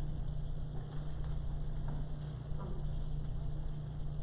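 Steady low electrical hum with a background hiss.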